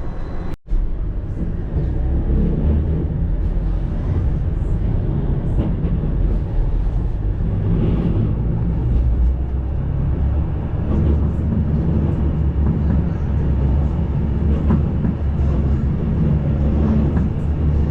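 Tram running on rails: a steady low rumble, broken by a split-second gap about half a second in.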